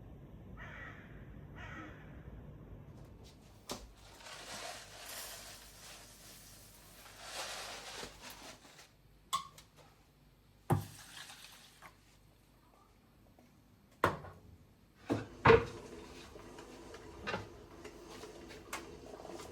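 Household handling sounds: scattered knocks and clacks of things being moved and set down, with a few stretches of soft hissing noise in the first half. The loudest knock comes about three quarters of the way through.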